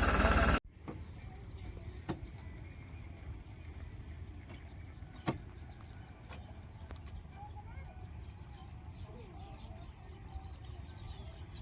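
Insects chirping in a steady, dense, high-pitched chorus, with a few sharp clicks and a faint low hum. A tractor engine running at the very start cuts off suddenly within the first half-second.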